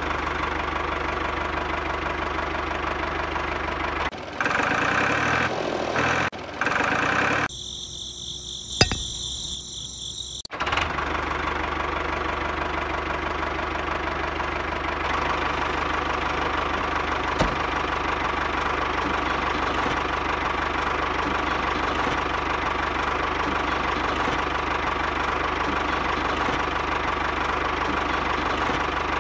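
An engine running steadily with a knocking, idling character. A few seconds in, the sound changes and dips for several seconds, with a single sharp click, before the steady engine sound picks up again.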